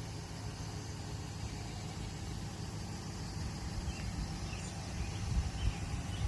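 2006 Chevrolet 1500 pickup's engine idling: a steady low rumble.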